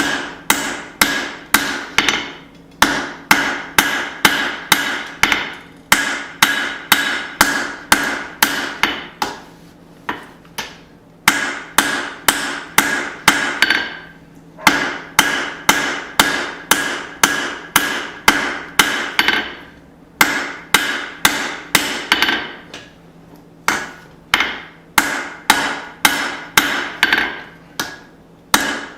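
Hammer blows on hot steel over an anvil, about two a second in runs broken by brief pauses, each strike with a short metallic ring, as upsets are worked out of a small hatchet head.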